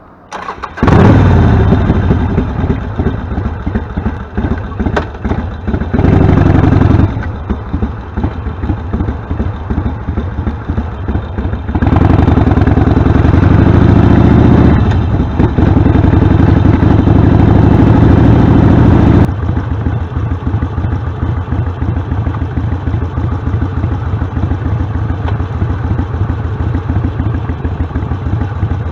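Harley-Davidson Sportster V-twin running loud through Vance & Hines Short Shots Staggered exhaust pipes as the bike is ridden. It comes in suddenly about a second in, then rises and falls with the throttle, loudest for a long stretch in the middle.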